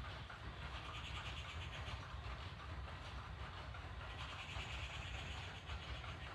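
Water pouring steadily onto plant leaves, a continuous splashing flow.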